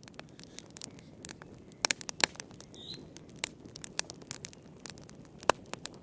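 Wood fire burning in a fireplace, crackling with irregular sharp pops over a low hiss, the loudest pops about two seconds in and near the end. A brief high chirp sounds about three seconds in.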